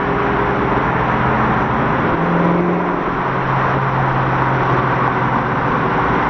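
Twin-turbo Ford Mustang's engine running steadily at low speed, heard from inside the car, with a slight change in engine note about two seconds in.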